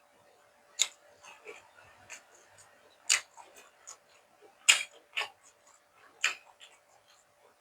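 A person eating close to the microphone: chewing with irregular sharp wet smacks and crunches, the loudest nearly five seconds in.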